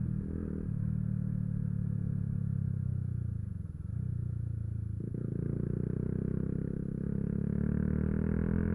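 Yamaha YZF-R125's 125 cc single-cylinder four-stroke engine running while the bike is ridden. The engine note dips briefly about three and a half seconds in, a click follows about five seconds in, and then the engine climbs steadily in pitch as the bike accelerates.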